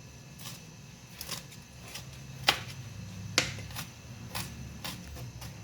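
Kitchen knife cutting habanero peppers on a cutting board: irregular sharp taps, two of them louder about two and a half and three and a half seconds in.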